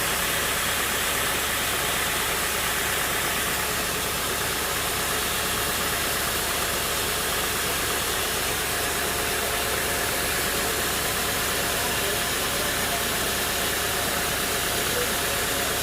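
An engine running steadily under a constant hiss, with no change in level.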